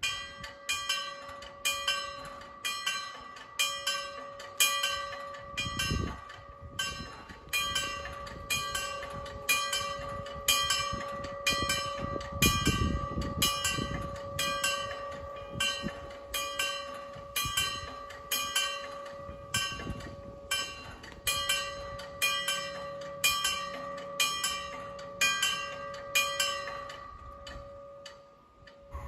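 Level crossing warning bell ringing steadily, a little more than one strike a second, as the crossing is activated for an approaching train; the ringing stops shortly before the end.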